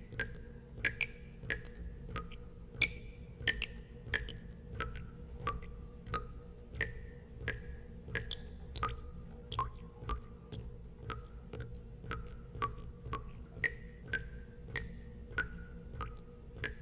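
Water drops falling one by one into water, about two a second at an uneven pace. Each drop gives a sharp plink with a short ringing note that varies in pitch from drop to drop. A steady low hum runs underneath.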